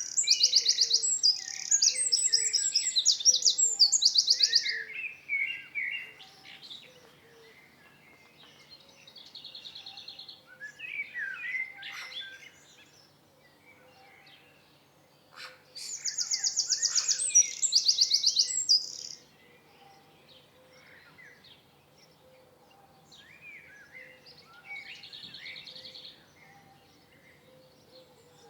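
Several songbirds singing: loud rapid trilled phrases in the first five seconds and again about sixteen seconds in, with softer chirps and calls in between.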